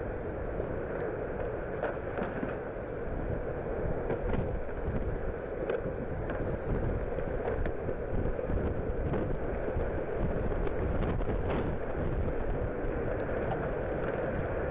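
Tornado-force wind blowing on a low-quality camera microphone: a dense, steady rushing noise with scattered faint clicks and knocks.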